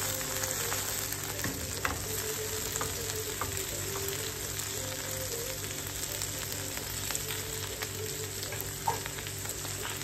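Raw okra and onion sizzling in a nonstick frying pan on a gas burner, tossed and stirred with a spatula, with a few light knocks of pan or spatula.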